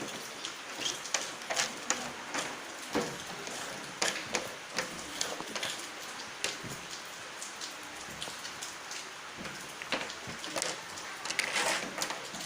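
Kinetic sand being handled and scraped: a steady gritty rustle with many small scattered clicks and taps.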